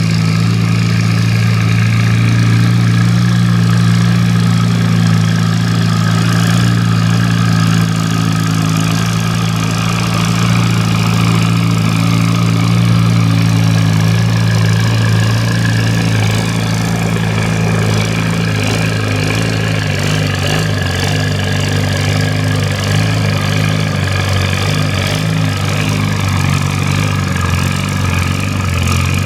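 Antique farm tractor engine running steadily at a loud, even speed. Its pitch shifts slightly about halfway through.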